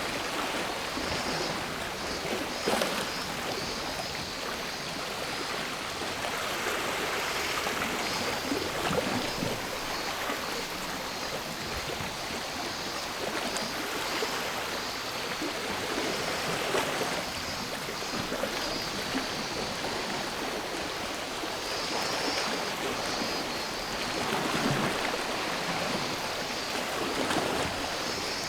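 Sea waves washing onto the shore, the surf swelling and falling back every several seconds, with a steady high buzz of cicadas over it.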